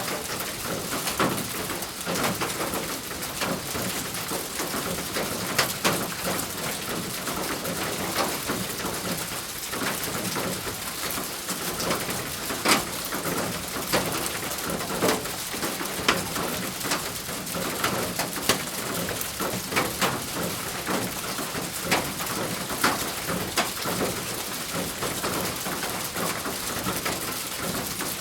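Rain falling steadily on a thin roof, with many sharp individual drop hits over an even patter. A bird cooing, like a pigeon or dove, can be heard at times.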